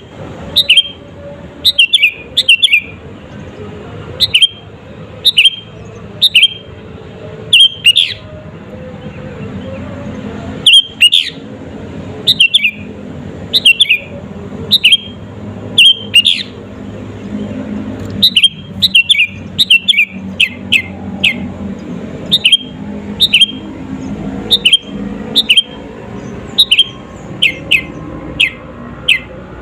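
Sooty-headed bulbul (kutilang) singing: short, loud, down-slurred whistled notes, often in quick pairs, repeated about once a second, with a pause of about two seconds about a third of the way in.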